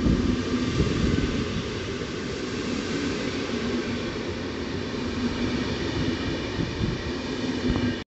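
Train running through a railway station: a steady rumble of wheels on rails with a steady whine over it.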